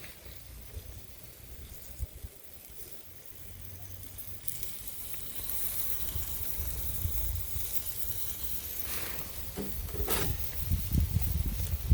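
Food sizzling on a small iron griddle over a wood fire, the hiss growing louder partway through, over a low rumble.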